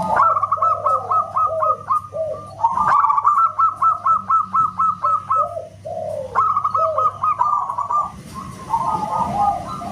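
Zebra doves (perkutut) cooing loudly. Rapid runs of short, high, whistle-like notes, about ten a second, are mixed with lower falling coos. The song comes in three bursts with brief pauses between them.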